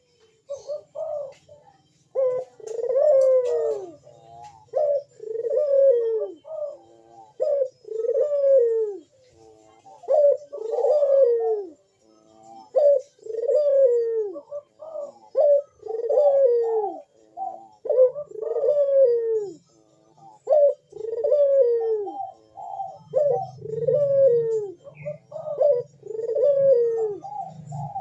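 Barbary doves (burung puter) cooing over and over, each coo a rounded arching call, about one a second with some overlapping, as doves in breeding condition do. A low hum runs underneath near the end.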